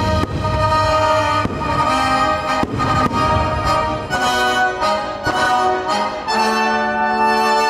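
Orchestral film-score music with brass, played loud over outdoor show speakers, with a few sharp bangs of fireworks in the first three seconds.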